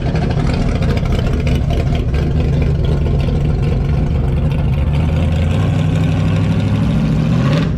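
Car engine idling with a loud, steady exhaust rumble, its pitch rising a little near the end.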